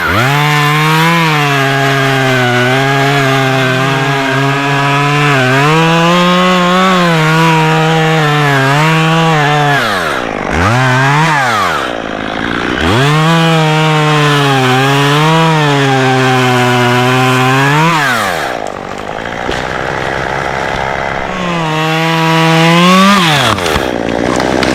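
Two-stroke chainsaw cutting oak limbs at full throttle, its pitch wavering as the chain loads up in the wood. It drops back to low revs twice, about ten seconds in and again near eighteen seconds, then gives a short final burst.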